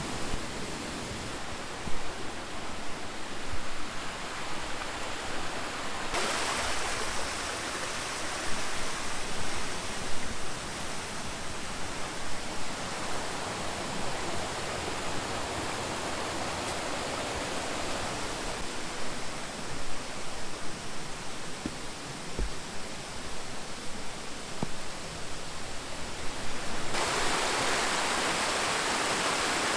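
Rushing water of a stream and its falls, a steady hiss that gets louder and brighter about six seconds in and again near the end.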